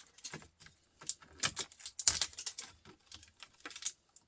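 Small scrap bits of laptop circuit board being handled and dropped into a pile of ribbon wire: irregular light clicks and rattles, with a couple of louder clatters around the middle.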